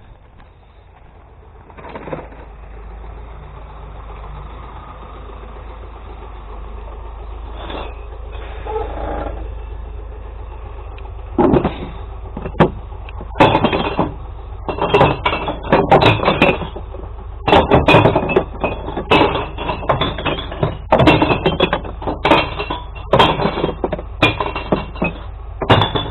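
A glass recycling truck's engine runs with a low rumble that grows louder. From about halfway there is a long run of crashing and clattering as glass bottles are tipped into the truck.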